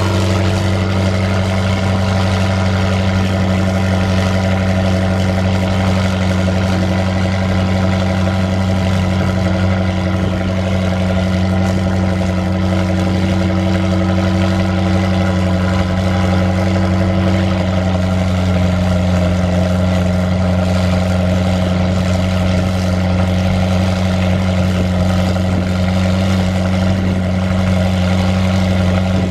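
A car engine running at a steady speed: a loud, even, low drone that holds one pitch throughout.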